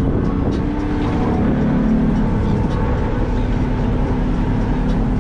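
A small boat's outboard motor running as the boat gets under way, its pitch rising over the first second or two and then holding steady.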